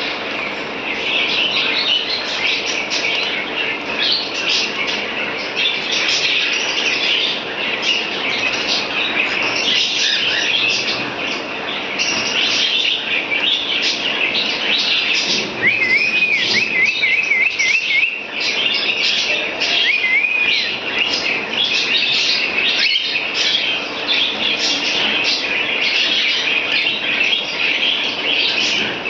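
Pet birds chattering: dense, overlapping chirps with no break, and a short run of clear rising-and-falling whistles about midway, then another whistle a few seconds later.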